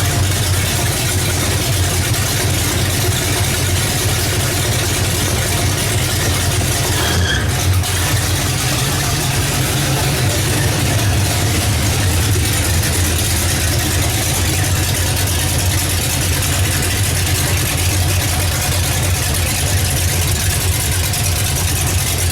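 Oldsmobile 455 V8 running at a steady idle on one of its first runs after an engine swap.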